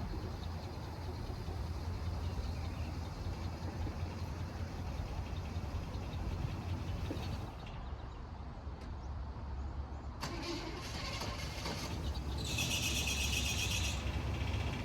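1973 Chevy K20 plow truck's engine running at idle with a steady low hum, the engine just revived after sitting about 20 years. About twelve seconds in, a short high-pitched buzzing joins it for a second or two.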